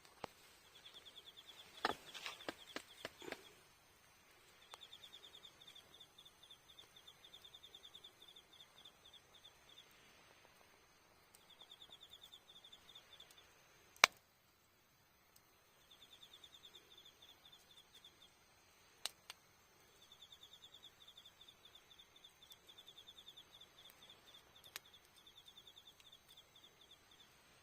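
An autumn insect chirps in rapid pulsed trains a few seconds long with short pauses between them. A campfire crackles now and then: a quick run of pops about two seconds in, and a single loud pop near the middle.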